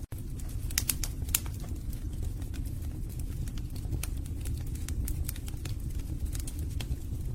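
Wood fire burning in a fireplace: a steady low rumble of flames with irregular sharp crackles and pops from the logs. The sound cuts out for an instant just after the start.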